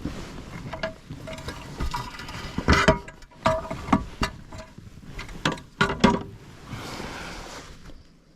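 Irregular knocks and clinks, some with a short ringing tone, as gear is handled on a kayak while a freshly caught bass is unhooked and measured.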